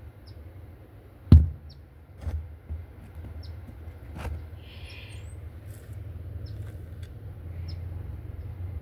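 Faint, short, high bird chirps repeating every second or so over a low rumble of wind or handling noise, with a sharp knock a little over a second in and two softer knocks after it.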